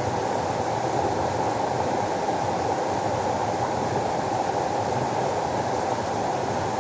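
Running water, a steady low rushing with no breaks or changes.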